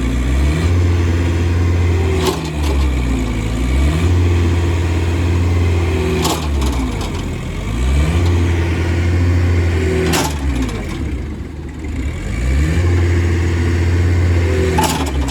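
Heavy farm diesel engine under load, its revs dropping and climbing back over and over, about every four seconds. A short sharp click or knock comes just before each drop.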